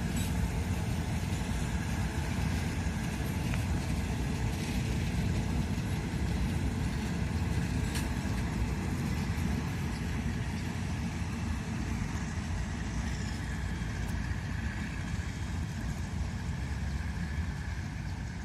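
Diesel train engine running steadily, a low, even engine sound that eases off slightly near the end.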